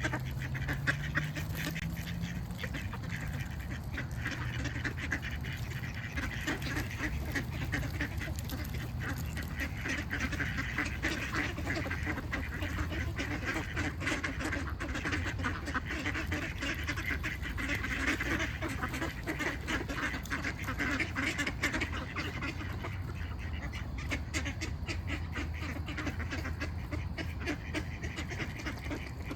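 A flock of ducks quacking in a dense, continuous chatter, over a low steady rumble.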